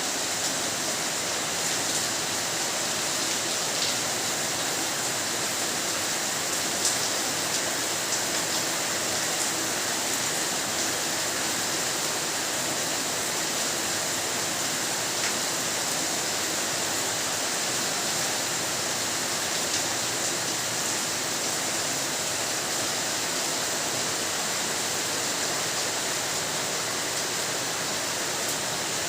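Steady rain falling, an even hiss with now and then a single drop tick standing out.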